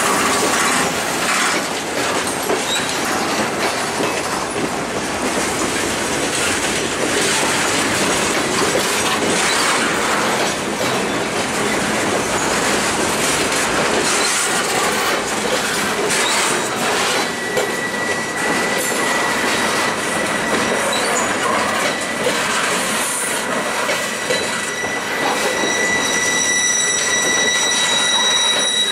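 Freight train flatcars rolling past close by: a steady rumble and clatter of steel wheels on the rails. A little past halfway a high, steady wheel squeal comes in and holds, growing shriller near the end.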